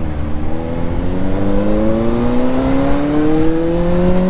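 Motorcycle engine accelerating hard, its pitch climbing steadily through a single gear.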